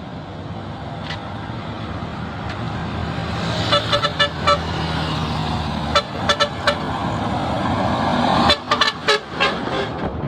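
Road traffic: vehicle engines running past, with short horn toots in three quick clusters of several beeps each, and the traffic noise swelling toward the last cluster.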